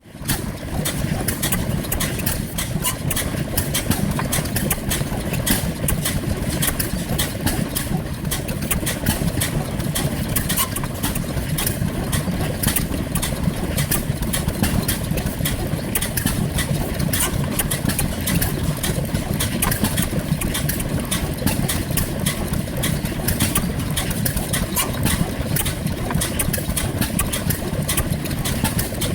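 Crossley K type gas engine running, heard firing now and again through a loud, steady mix of engine noise with a rapid run of sharp beats.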